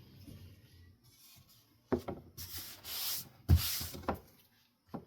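A cane ceiling-fan blade being wiped down with a cleaning wipe: two short knocks, each followed by a rough rubbing stroke, the louder knock about three and a half seconds in.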